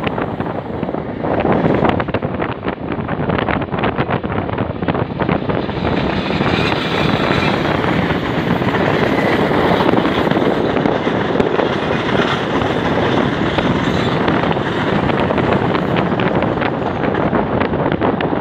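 Passenger train running on the rails, heard at an open carriage window: a steady rush of wind on the microphone mixed with wheel and rail noise, with many short clicks in the first few seconds.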